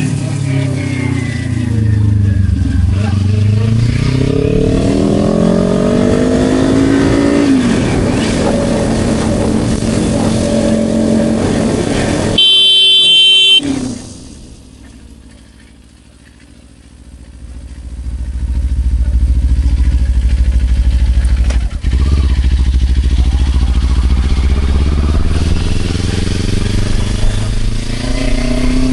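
Kawasaki Ninja 500 parallel-twin motorcycle engine riding and revving, its pitch rising and falling through gear changes. About twelve seconds in, a horn blares loudly for about a second; then the engine goes quiet for a few seconds before running steadily again.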